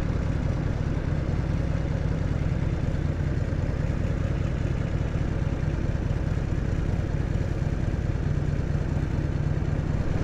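Harley-Davidson FXSTS Springer Softail's air-cooled Evolution V-twin engine running steadily, its exhaust note low and even.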